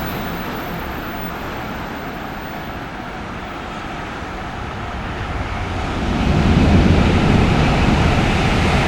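A freight train hauled by an EF66 electric locomotive approaching along the track: a low rumble that swells markedly louder about six seconds in as the train draws close.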